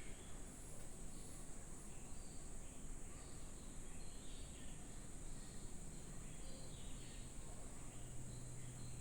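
Faint background noise: a steady high-pitched hiss, with a low steady hum coming in about seven seconds in.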